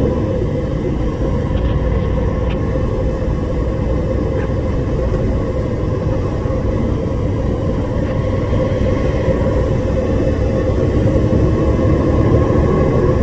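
Steady low rumble of a heavy diesel engine, running evenly with a constant hum.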